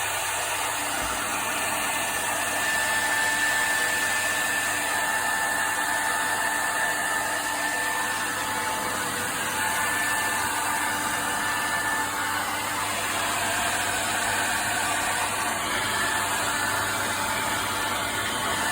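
Hair dryer running steadily: an even rush of blown air with a faint steady motor whine.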